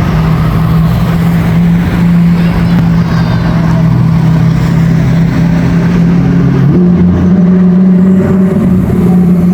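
A car engine running steadily, with street noise around it; about seven seconds in, its pitch steps up slightly.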